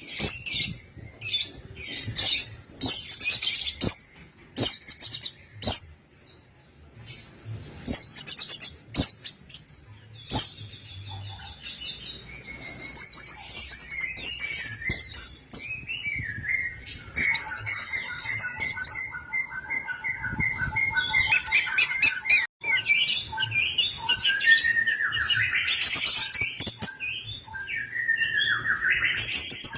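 Orange-headed thrush singing. The first half is short bursts of rapid, dry, high trills; from about halfway on it becomes a denser, more varied song with lower whistled phrases running together.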